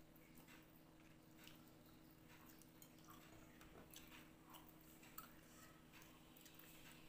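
Faint chewing and small mouth and finger clicks of a person eating rice and fish by hand, over a low steady hum.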